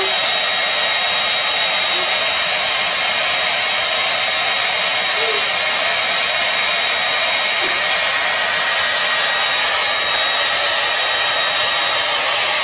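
Hair dryer blowing steadily, a loud even rush of air with a thin high whine from its motor.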